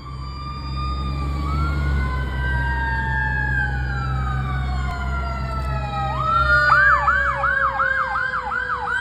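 2021 KME Predator fire engine responding with its sirens going: a long wail slowly falls in pitch while a second wail rises and falls. About six seconds in, a fast yelp starts, rising and falling about three times a second, over the truck's low engine rumble.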